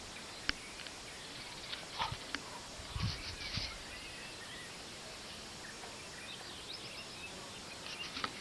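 Steady outdoor background noise with a few short, light clicks and knocks in the first half, and faint chirps near the end.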